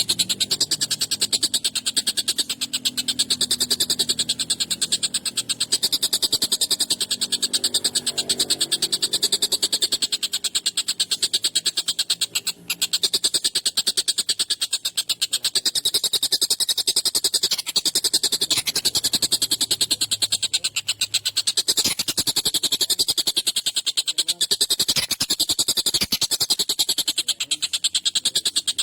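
Tengkek buto kingfisher calling in a long, harsh, rapid rattling chatter of many notes a second, with hardly a pause.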